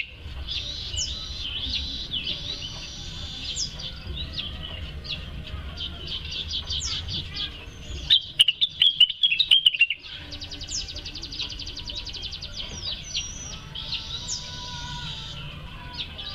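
Blue-winged leafbird (cucak wilis) singing vigorously: a long, varied song of rapid chirps and trills, with a louder run of falling notes about eight seconds in. A low steady hum lies underneath.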